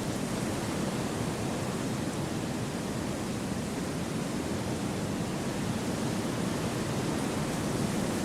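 Wind blowing through forest trees: an even, steady rush without gusts or breaks.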